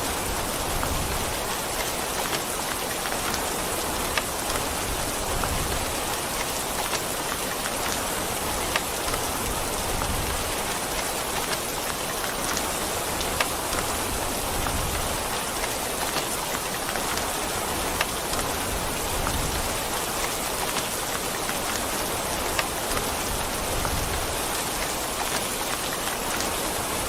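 Steady, continuous rainfall hissing evenly on a surface, with occasional single sharp drop ticks standing out every few seconds.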